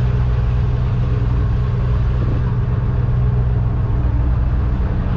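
Boat engine running steadily while the boat cruises, a constant low hum with no change in pitch.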